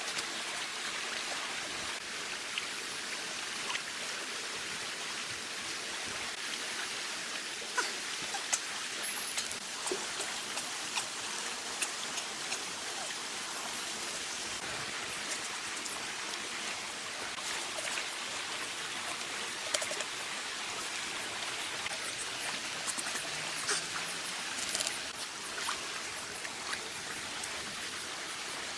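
Steady rush of water with scattered small splashes and clicks.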